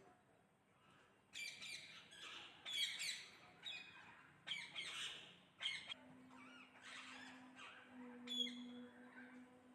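Parrots squawking, a quick run of short harsh calls about a second in, then a few scattered ones. A steady low hum starts about halfway through.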